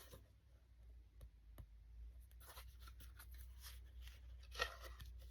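Faint rustling and crinkling of paper as a picture book's page is handled and turned, with a slightly louder rustle near the end; otherwise near silence.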